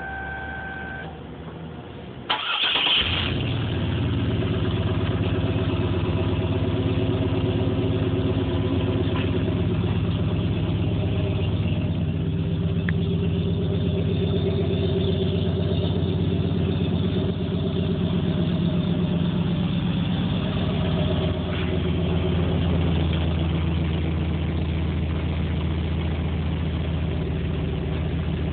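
1987 Chevy crew cab pickup's engine starting through its turbo exhaust: a short loud burst as it catches about two seconds in, then a steady idle.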